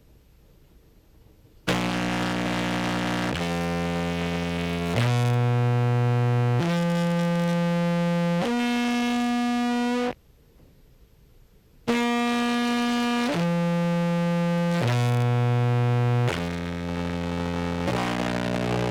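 Contrabass clarinet played through a fuzz and effects chain, with a heavily distorted, buzzy tone. It plays a five-note scale up, pauses, then plays the same notes back down. It is a test of whether the compression setting evens out the level across the notes.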